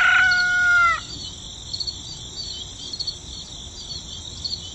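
A rooster crowing, its last long held note ending about a second in, over a steady, high chorus of chirping insects.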